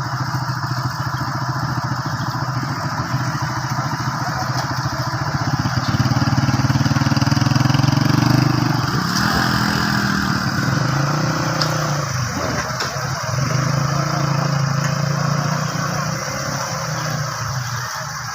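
An engine running steadily, getting louder about six seconds in and changing pitch around nine seconds in.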